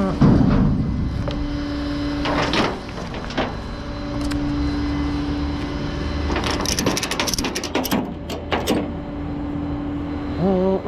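Rollback tow truck running while a pickup is unloaded off its bed: a steady hum with a low rumble that drops out a few times, a heavy knock at the start, and a burst of sharp metallic clicks and rattles about six to nine seconds in.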